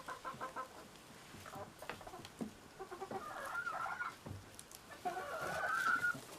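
Hens clucking: a quick run of short clucks at the start, then two longer drawn-out calls about halfway through and near the end.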